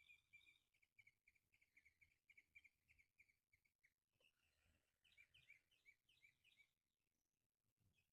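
Faint birdsong: a quick, even run of chirps for about four seconds, then a higher, busier burst of chirping until about seven seconds in.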